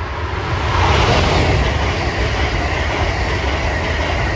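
Amtrak Acela high-speed electric trainset passing close by at speed: a loud rush of wheel and air noise over a low rumble, building in the first second and then holding steady as the cars go by.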